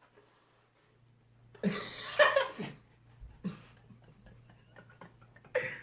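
A person's voice: a short outburst with no clear words about two seconds in, then a couple of brief vocal sounds, over a faint steady low hum.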